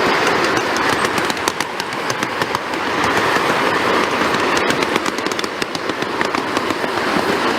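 Train cars rattling along the track: a steady rumble with dense, irregular clicks and clatters from the wheels and couplings.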